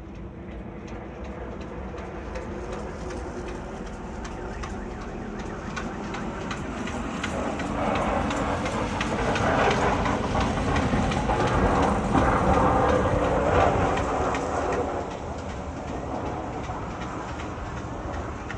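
A train passing, its wheels clattering on the rails, growing louder to a peak about halfway through and then easing off.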